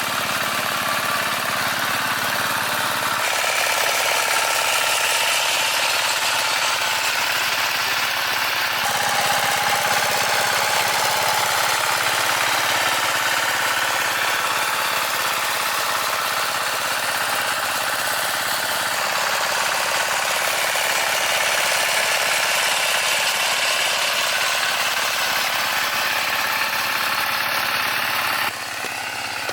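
Engine of the machine digging the pond, running steadily under load. The sound shifts abruptly a few seconds in, about nine seconds in and near the end.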